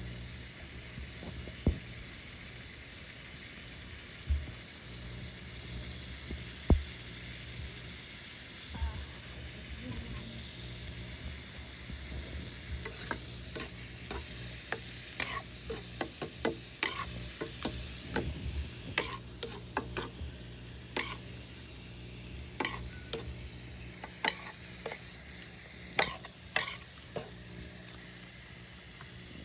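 Chicken pieces sizzling as they fry in a wok, with a metal spatula scraping and clanking against the pan as they are stirred; the clanks come thick and fast from about halfway through. A few separate sharp knocks sound in the first several seconds.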